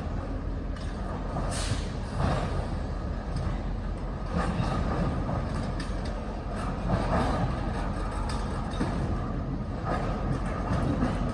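Freight train moving during switching: the steady rumble of an EMD GP38-3 diesel locomotive and rolling cars, with a few separate knocks every couple of seconds.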